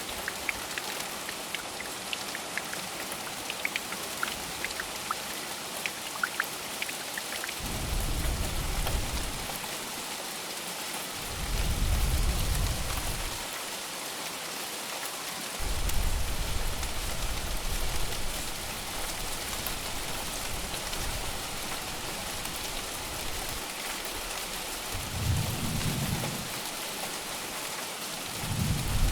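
Steady rain with a thunderstorm. A few separate drops tick in the first several seconds, then low rolls of thunder rumble about four times, each lasting a second or two.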